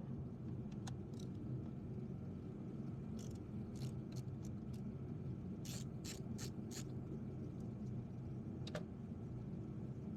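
Scattered light metallic clicks of hand tools being handled, about a dozen, with four close together about six seconds in, over a steady low hum.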